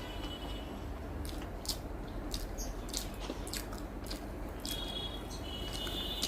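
Close-up eating sounds: chewing and biting, with a run of short, crisp mouth clicks and light crunches. A faint high chirping comes in near the end.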